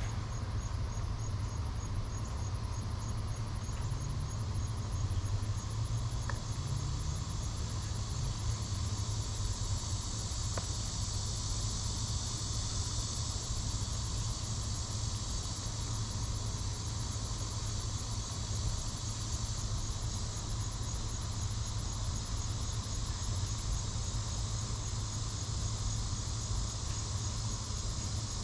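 Steady insect trilling, high and continuous, over a low steady hum.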